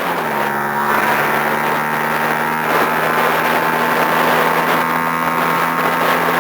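Sport motorcycle engine running at a steady cruise, its pitch dipping slightly at the start and then holding even, with wind rushing over the microphone.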